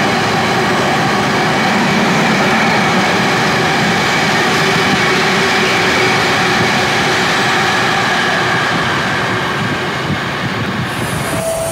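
A train at a station: steady, loud running noise with several held tones, easing off slightly near the end.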